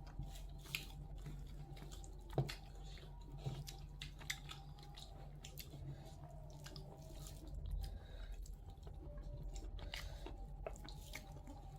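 Someone chewing and biting food, most likely chicken, with scattered small crunches and clicks over a low steady hum.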